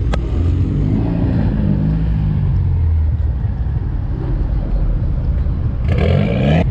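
Car engine running close by, its pitch rising and falling, with a brief louder rise near the end.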